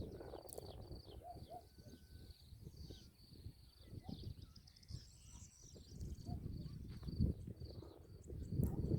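Rural field ambience: a steady run of high, thin chirping from small creatures, over low gusty rumble that grows louder near the end.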